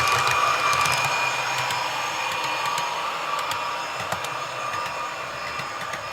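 Model train running along the track: a steady motor whine with small clicks from the wheels, fading gradually.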